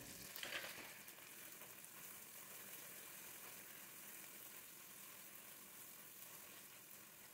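Faint, steady sizzle of sliced onions, chopped herbs and spices frying in hot oil in a nonstick pan.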